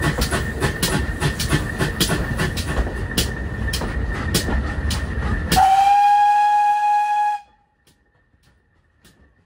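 Pannier tank steam locomotive running along the line, its wheels clicking over the rail joints amid a heavy rumble. About five and a half seconds in it gives one steady whistle blast of about two seconds, which cuts off suddenly.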